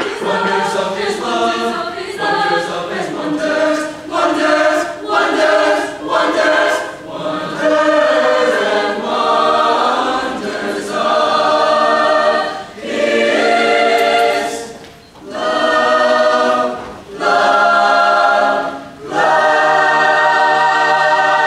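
Choir singing a cappella in phrases, closing on a long held chord.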